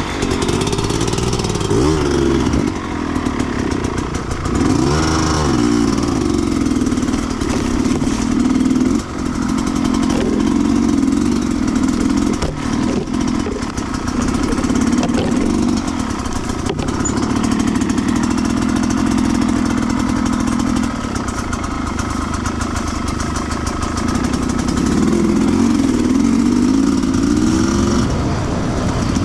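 Sherco 300cc two-stroke enduro motorcycle engine being ridden, its pitch rising and falling again and again as the throttle is opened and closed.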